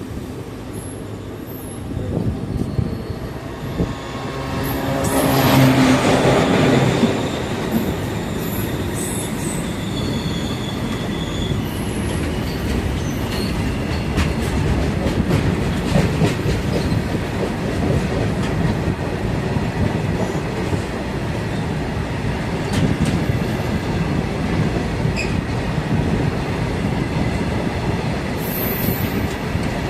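Jhelum Express passenger train running on the rails: a steady rumble with wheel clatter and thin, high wheel squeals. About five seconds in, a louder pitched sound swells up and fades out again by about eight seconds.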